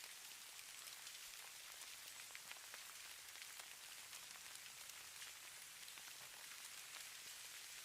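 Falling snow pattering on a surface: a faint, steady hiss made of many tiny ticks.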